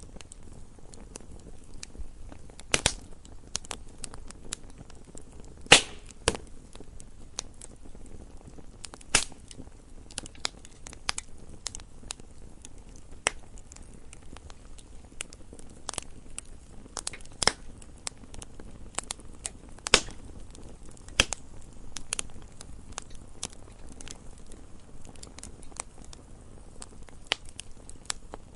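Wood fire crackling: irregular sharp pops and snaps over a faint steady hiss, with a few louder pops.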